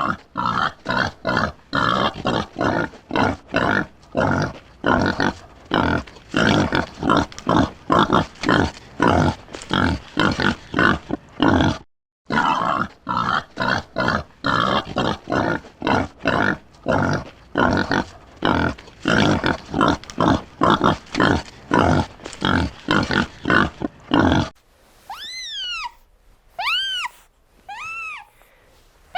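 Pig grunting in quick, short grunts, several a second, with a brief break about halfway through. Near the end a cat meows several times, each call rising and falling in pitch.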